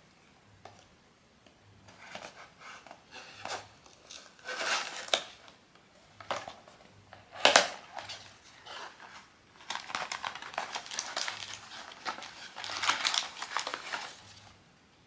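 Blind-box packaging wrapper being crinkled and torn open by hand, in several spells of crackling. There is one sharp, loud crackle about seven and a half seconds in, and a longer spell of dense crinkling near the end.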